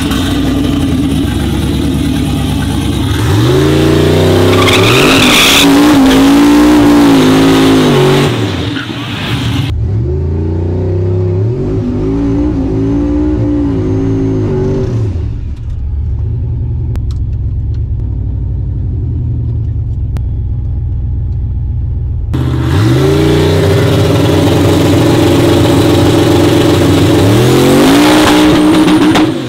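Twin-turbo LS V8 street truck engine at full throttle on a drag-strip pass, its pitch climbing and dropping again and again as it pulls through the gears. The sound breaks off abruptly a few times and returns, with a quieter stretch of engine running in the middle.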